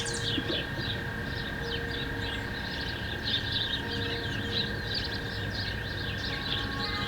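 Many small birds chirping and calling at once in a busy, overlapping chorus, with a steady high hum underneath.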